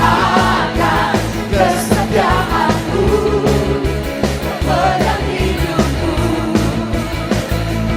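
Church worship band music with singing: a voice over a full band with a steady bass line.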